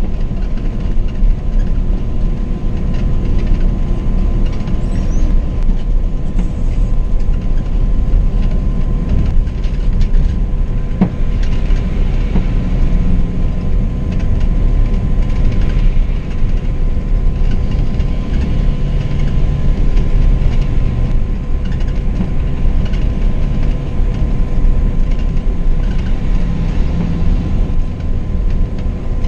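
Scania K420 double-decker coach under way: a steady low rumble of engine and road noise that holds an even level throughout, with a faint steady tone above it.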